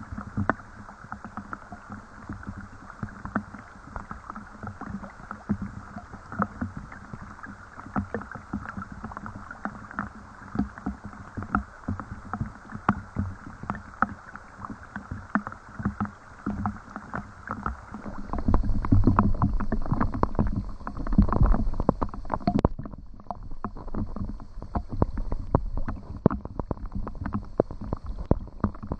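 Rain falling, heard as a dense, irregular run of individual drops ticking and splashing close by. About eighteen seconds in, a louder low rumble swells for a few seconds under the drops, then eases.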